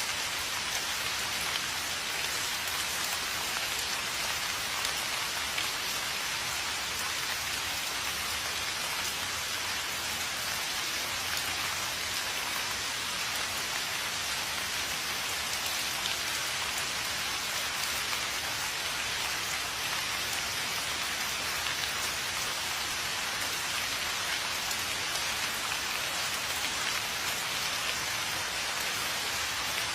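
Steady rain falling on a surface, a dense even hiss of drops with no let-up.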